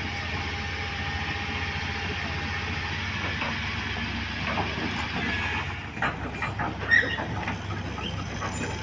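Heavy diesel engine running steadily, with a series of metallic knocks and clanks about six to seven seconds in.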